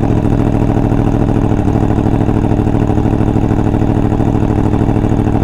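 Yamaha MT-10's crossplane inline-four engine idling steadily through a full titanium Akrapovic race exhaust, loud and even.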